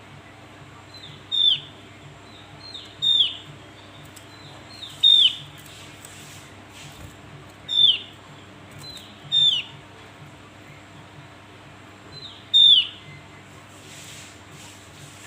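Javan grey-throated white-eye (opior Jawa) calling: six short, high notes, each a quick downward sweep, repeated every one and a half to three seconds.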